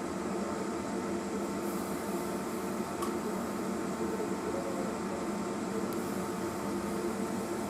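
Steady mechanical hum with no change in pitch, and one faint click about three seconds in.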